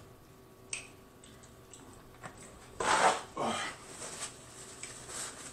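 Close-miked eating sounds: scattered small clicks and lip smacks of chewing. About three seconds in comes a louder rustle of a paper napkin, lasting under a second, as the mouth is wiped.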